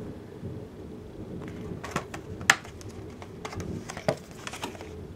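Plastic DVD cases being handled, giving several sharp clicks and knocks, the loudest about two and a half seconds in and another about four seconds in. A low rumble of rain and thunder runs underneath.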